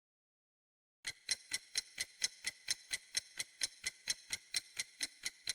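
Clock-ticking sound effect, a steady run of sharp ticks about four a second, starting about a second in after dead silence.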